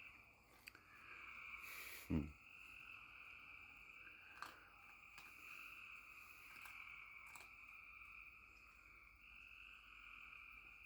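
Faint, steady trilling chorus of calling frogs and insects. A brief thump about two seconds in, and a few light clicks.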